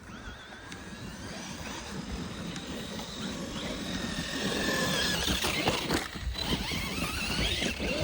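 Radio-controlled trucks' electric motors whining, the pitch rising and falling with the throttle, over a rough rumble of tyres on dirt. It grows louder from about halfway through.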